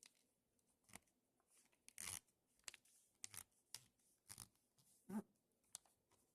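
Faint rustling and creasing of a sheet of paper being folded by hand: a string of short, dry scrapes and crinkles, the loudest about two seconds in and again about five seconds in.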